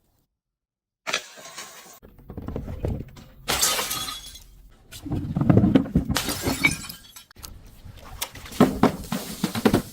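Glass bottles smashing and shattering in several separate crashes, the first about a second in, with crunching and the tinkle of falling shards between them.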